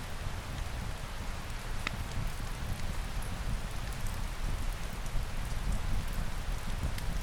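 Steady rain, a dense even hiss over a deep low rumble, with a few isolated sharp ticks, about two seconds in and again near the end.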